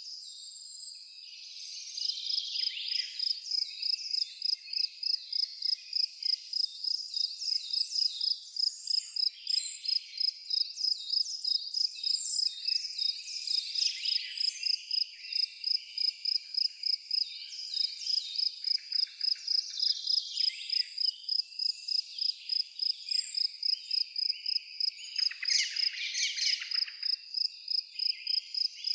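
An insect chirps in a steady, even rhythm of high pulses, pausing briefly near the start. Birds call and twitter irregularly over it.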